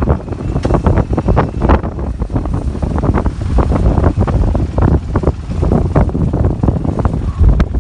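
Blizzard wind gusting hard against the microphone, with heavy low rumbling buffets and flutters.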